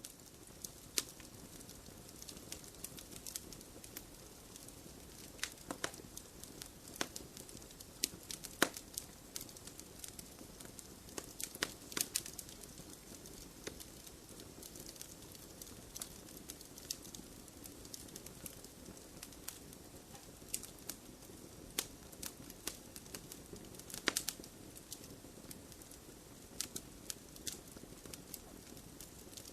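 Wood fire crackling in a fireplace: a steady low hiss of burning with frequent sharp pops and snaps, a few louder ones about 8, 12 and 24 seconds in.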